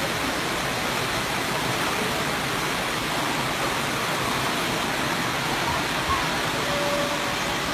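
Torrential tropical rain pouring down: a steady, even rushing noise.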